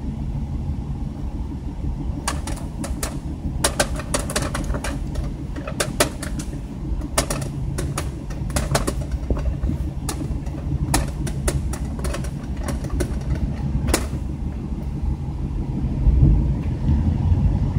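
A steady low rumble with many short sharp clicks and taps scattered irregularly through it.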